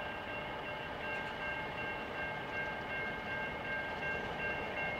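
Freight train's boxcars rolling slowly through a grade crossing with a steady low rumble. A steady high ringing of several tones carries on over it.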